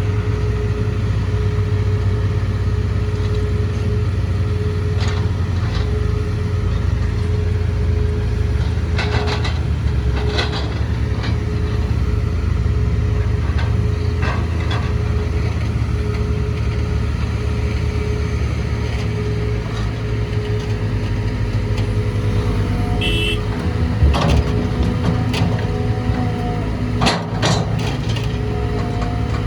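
Caterpillar 320GC excavator's Cat C4.4 four-cylinder diesel engine running at a steady speed, with a steady hum and a few short clicks and knocks here and there.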